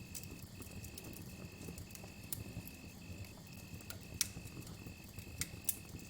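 Campfire crackling with scattered sharp pops, the loudest about four seconds in and two more near the end, over a low steady rumble. Behind it a steady high cricket trill runs on, broken by short gaps.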